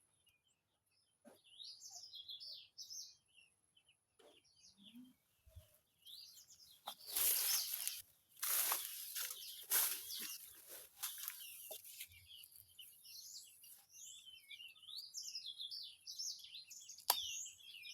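Small songbirds chirping in quick, high, repeated notes, in a short burst early on and then almost continuously in the second half. A louder stretch of rustling noise comes in the middle, and there is one sharp click near the end.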